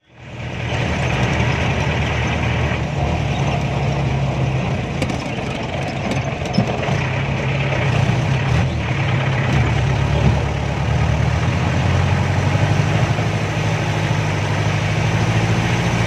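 Jeep engine running steadily while driving along a rough dirt track, heard from inside the vehicle, with a few short knocks and rattles along the way.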